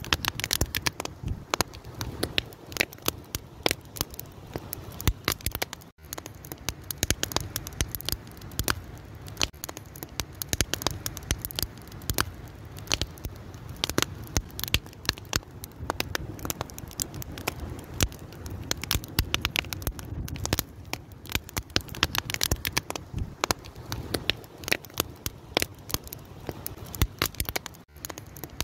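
An open fire crackling: many irregular sharp pops and snaps over a low steady rush of flame.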